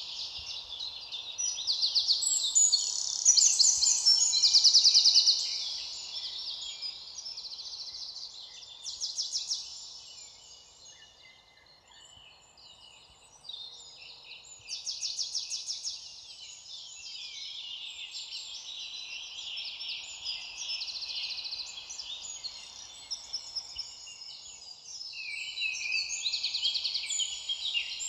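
Several songbirds singing at once, overlapping rapid trills and chirps, briefly thinning out about halfway through before picking up again.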